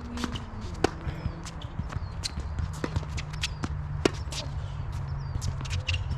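Tennis play on a court: footsteps and shoe scuffs of players moving, with sharp knocks of the ball, the two loudest about a second in and about four seconds in, over a steady low hum.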